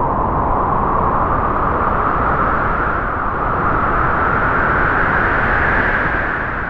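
A strong gust of wind blowing as a steady whooshing rush, its pitch slowly rising, then beginning to die away near the end.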